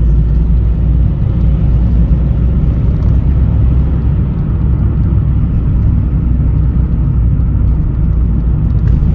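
Steady road noise inside a Vauxhall Meriva B on the move: a low rumble of tyres and engine, even throughout. There are no knocks or clicks from the hubs or driveshafts, the sign of a sound drivetrain.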